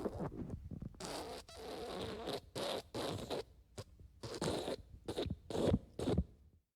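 Fart sound effects: a string of raspy, sputtering farts, the last several short and quick, cutting off suddenly near the end.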